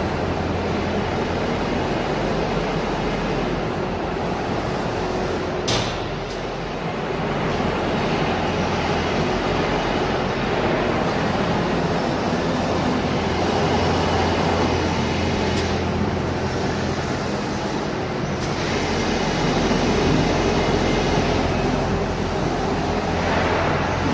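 Factory machinery running steadily, a constant low hum under broad mechanical noise, with a single sharp click about six seconds in.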